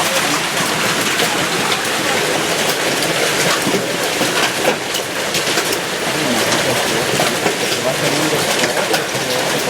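Hailstorm: a dense, steady patter of hailstones hitting a hard surface, with many sharp individual hits.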